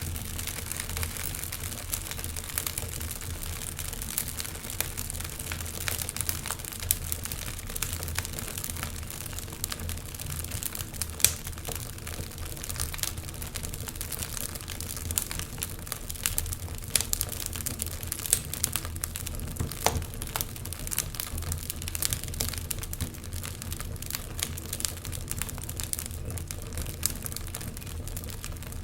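Fire crackling, with irregular sharp pops over a steady low rumble; the loudest pops come about eleven and twenty seconds in.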